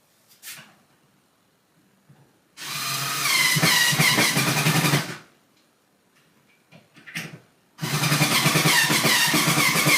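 Power drill running in two bursts of about two and a half seconds and over two seconds, its motor whine rising in pitch as it spins up and then holding steady. Light clicks come before each burst.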